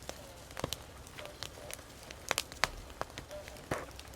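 Wood fire crackling: irregular sharp snaps and pops, a few louder ones about half a second, two and a half and three and a half seconds in.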